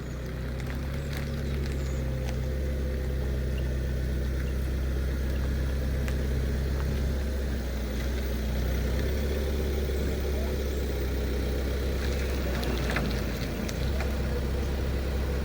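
A vehicle engine running steadily, a low rumble with a steady hum above it, with a few light clicks and knocks over the top.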